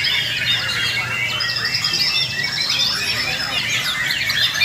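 Many white-rumped shamas (murai batu) singing at once in a dense, unbroken chorus of overlapping whistles, glides and chattering calls, the massed song of contest birds.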